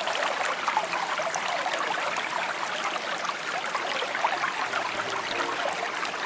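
Small stream trickling and babbling steadily. Faint held music notes begin under the water sound about five seconds in.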